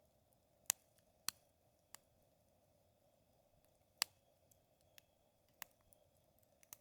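Wood campfire crackling: sharp pops at irregular intervals, about seven in all, the loudest ones near the start and about four seconds in.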